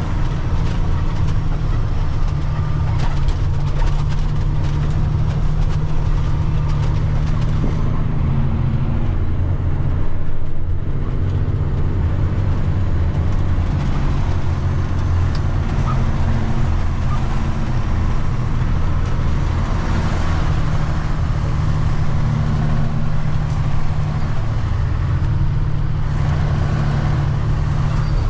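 Water truck's diesel engine running steadily under way, heard from inside the cab as a loud, even low drone.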